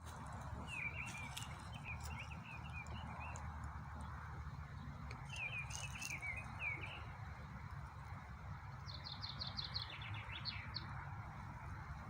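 Songbirds singing two short warbling phrases, then a quick trill near the end, over the steady rush of flowing spring water and a low rumble.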